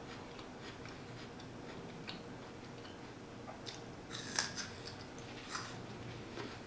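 Crunchy bite into a raw jicama fry about four seconds in, then crisp chewing with a few more sharp crunches.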